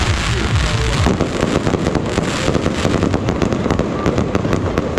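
Aerial fireworks bursting overhead in a dense, continuous barrage of crackles and sharp bangs, with the reports coming thick and fast from about a second in.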